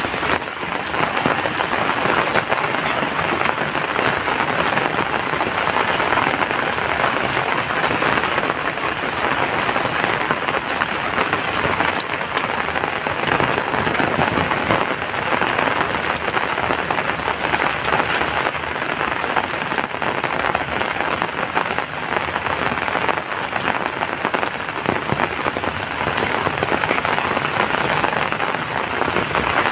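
Heavy rain falling steadily: a dense, even patter of drops that holds without a break.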